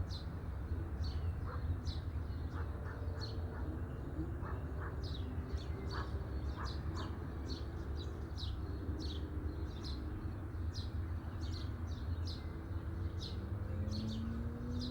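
Small birds chirping, short high downward chirps about one or two a second, over a steady low hum.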